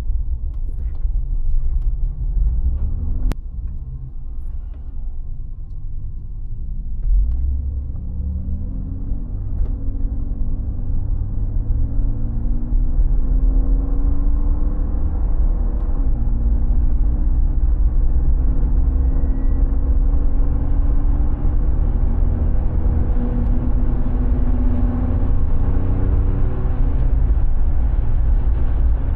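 Mercedes G36 AMG's straight-six engine driving under load, with a deep rumble. From about seven seconds in it grows louder, and its pitch climbs and drops back several times as it accelerates up through the gears.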